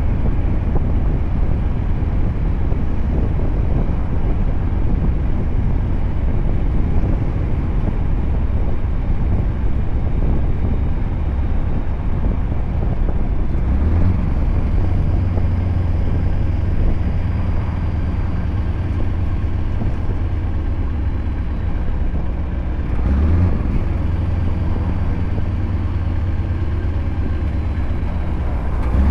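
Scania R580's 16-litre V8 diesel with an 8-inch straight-pipe exhaust running steadily as the truck drives. Its deep note grows stronger about halfway through, dips briefly and comes back later.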